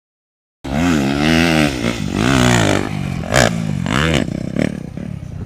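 Yamaha YZ250F's four-stroke single-cylinder engine revving up and down as the throttle is worked, with three quick throttle blips in the second half before it drops back to a lower, rougher note.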